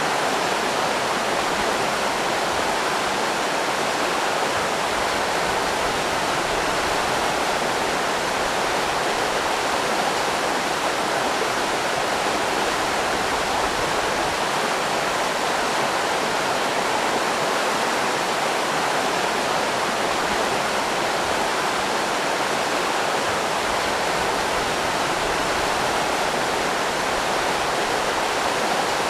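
River rapids rushing steadily, a dense, even noise of fast-flowing water.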